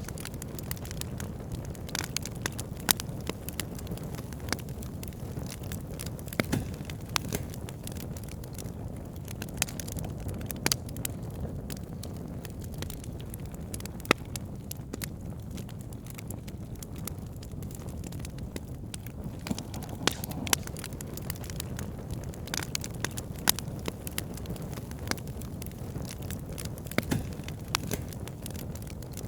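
Campfire burning, the wood crackling with sharp pops at irregular moments over a steady low rumble of the flames.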